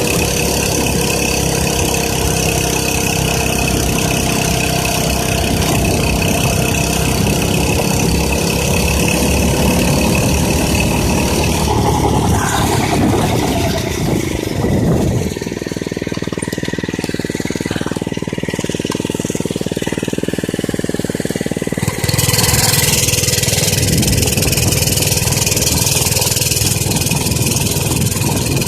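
Minibike's small engine running steadily. About halfway through its pitch glides and it settles into a duller, steadier sound for several seconds, then it abruptly comes back louder and brighter.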